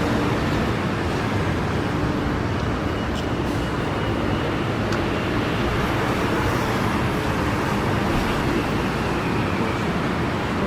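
Steady city traffic noise from vehicles on wet streets, with a low engine hum underneath.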